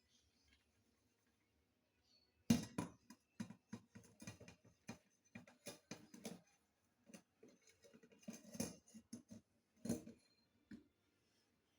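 Dishes knocking and clinking together during hand dish-washing: a burst of irregular sharp knocks starting about two and a half seconds in, the first the loudest, carrying on in quick clusters until about ten seconds in.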